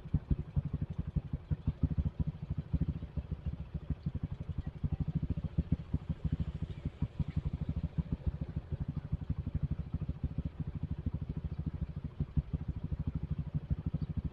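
Motorcycle engine, likely the Suzuki Satria FU's single-cylinder four-stroke, running steadily at low speed. Its exhaust makes a rapid, even train of low thumps.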